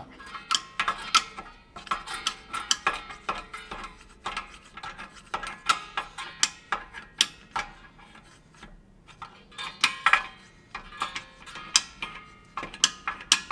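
Star-wheel adjuster of a Lexus GS300's rear drum parking brake being turned to back off the handbrake shoes: a run of sharp, irregular metallic clicks and scrapes with a couple of short pauses.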